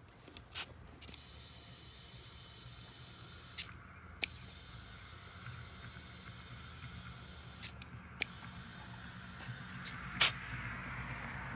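Compressed air hissing through an air-compressor hose chuck into a tractor tire as it is inflated. Several sharp clicks break the hiss, and the hiss drops away near the end.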